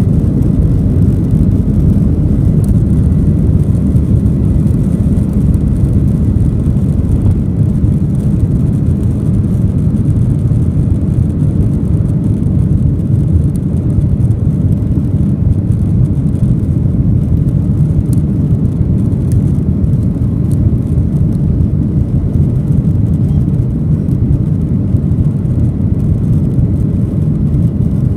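Steady, loud cabin rumble of a Boeing 737-800 in flight, from its CFM56-7B jet engines and the airflow over the fuselage, heard from inside the passenger cabin. It stays even throughout, with no change in pitch.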